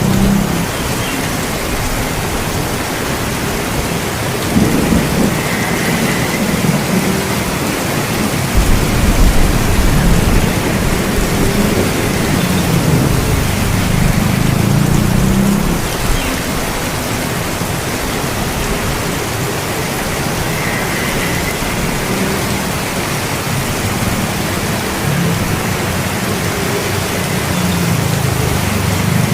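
Steady heavy rainfall with low rolling thunder that swells and fades several times.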